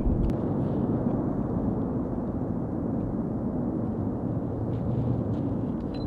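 Cumbre Vieja volcano erupting: a steady low rumble, with a couple of faint ticks on top.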